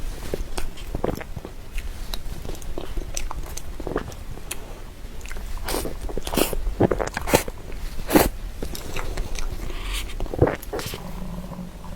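Close-miked chewing and biting of soft cream cake, with irregular sharp mouth clicks and smacks that come thickest and loudest in the second half.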